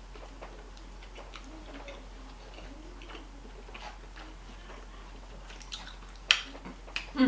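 A person chewing food close to the microphone: soft wet mouth clicks and smacks. A sharper click about six seconds in is the loudest, and two more follow near the end.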